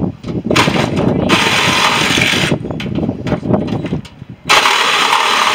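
Tool work on scrap metal: two bursts of mechanical noise a couple of seconds each, with a rapid ratcheting chatter.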